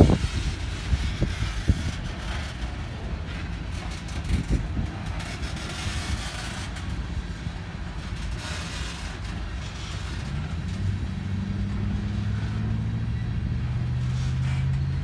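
Freight train of open-top hopper cars rolling past: a steady rumble of wheels on rail, with a few sharp clunks in the first few seconds. A low steady engine hum comes in about ten seconds in.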